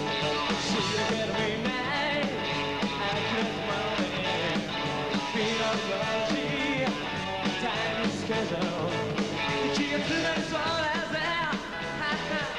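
Rock and roll band playing a song, with electric guitars, drums and singing.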